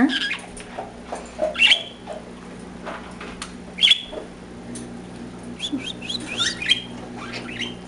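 Pet cockatiels and budgies chirping in short, scattered calls, with a quick run of chirps in the second half. A steady low hum runs underneath.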